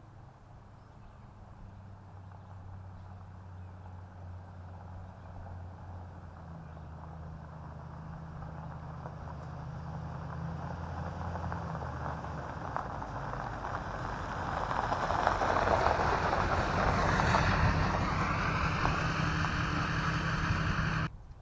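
A motor vehicle's engine drawing steadily closer and louder, passing close by with a falling pitch, then cutting off abruptly near the end.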